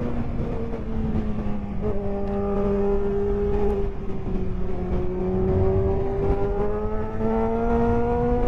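Honda CBR600F's inline-four engine running under way at a steady cruise. The note drops a step about two seconds in, then climbs slowly toward the end, with a heavy low rumble of wind buffeting the microphone.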